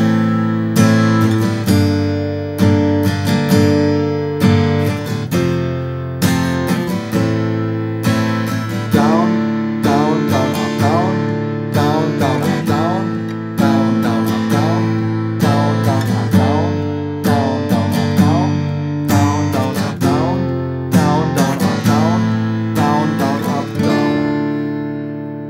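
Acoustic guitar strumming chords in a steady, rhythmic chorus pattern. The last chord is left to ring out and fades near the end.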